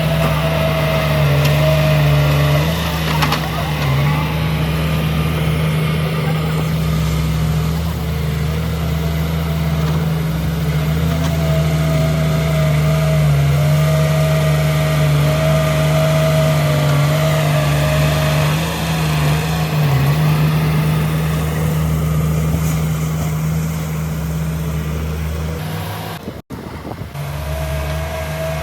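Heavy diesel engine of an earthmoving machine, a bulldozer or excavator, running steadily under load, with a higher steady whine that comes and goes. The sound cuts out for a moment about two seconds before the end.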